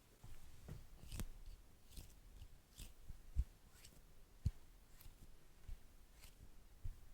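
Beeswax wrap handled close to the microphone: scattered soft crinkles and small clicks, with two soft taps a little past the middle.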